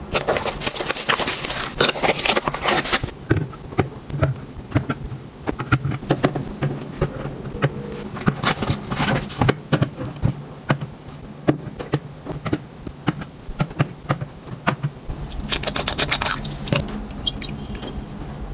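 Hands handling items and setting them down: rustling, crinkly packaging and many light taps and clicks, with heavier bursts of rustling at the start and again near the end.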